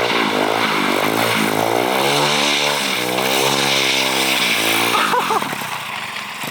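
Single-cylinder 110cc pit bike engine of a homemade drift trike being ridden. It revs up, holds high revs for a couple of seconds, then drops back about five seconds in.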